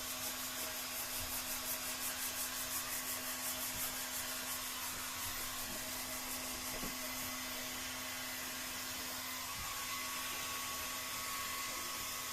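Heat gun blowing hot air with a steady hiss and constant hum, softening the adhesive so the glued transom holders can be peeled off the PVC boat's hull.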